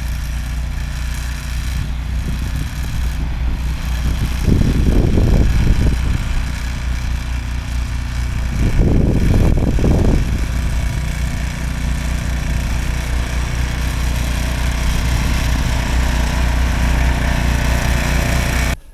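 Snowblower engine running steadily, with two louder swells about five and nine seconds in.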